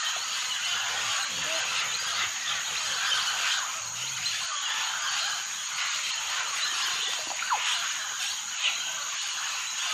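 Jungle ambience: a dense, steady chorus of insects and frogs with a constant high-pitched whine, and a few short chirping calls scattered through it.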